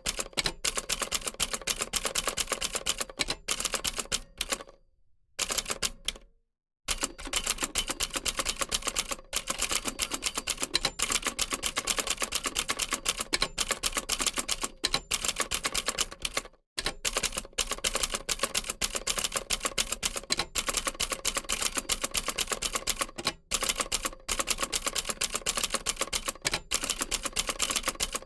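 Old typewriter typing: a fast, steady stream of key clacks, broken by two short silences about five and six and a half seconds in.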